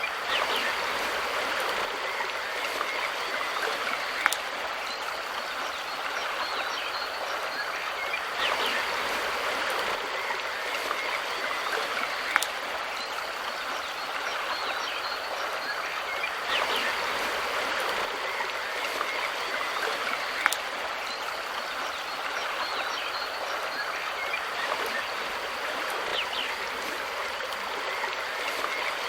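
Mountain river stream flowing steadily, an even rush of water. A short sharp click cuts through four times, about every eight seconds.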